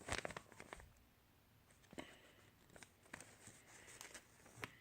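Faint paper handling: a few soft rustles and crease clicks as a sheet of paper is folded into paper-airplane wings, a cluster in the first second, then single ones about two seconds in, three seconds in and near the end.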